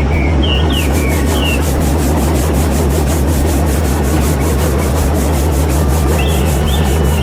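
Small motor-driven mini chaff cutter running: a steady low hum, joined about a second in by a fast, regular rhythm of strokes. Birds chirp at the start and again near the end.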